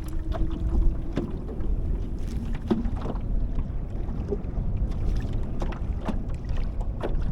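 Wind rumbling on the microphone with water lapping around a kayak, and scattered small knocks and clicks.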